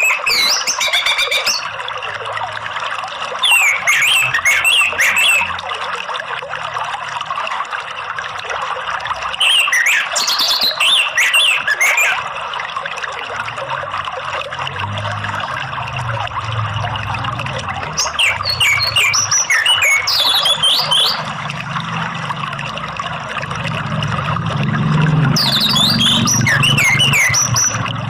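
Orange-headed thrush song in five separate phrases of rapid, sweeping high whistles, each lasting about two seconds, spaced several seconds apart. Under the song runs a steady sound of flowing water.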